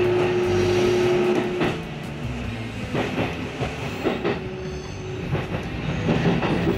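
Electric commuter train running, heard from inside the car: a steady rumble with a held humming tone for the first second and a half, then a few clicks of the wheels over rail joints.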